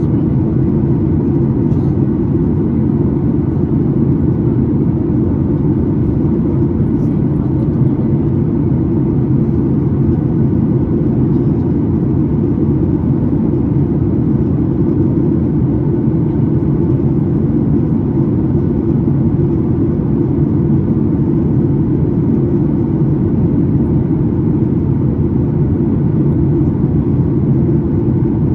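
Steady low rumble of a Boeing 737-9 MAX heard inside the passenger cabin: airflow and CFM LEAP-1B engine noise, even and unchanging.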